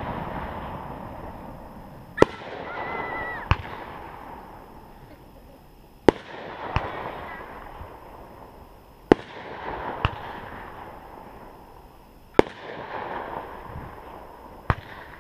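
Aerial fireworks going off: six sharp bangs, about one every three seconds, each followed by a rushing swell of noise that fades before the next.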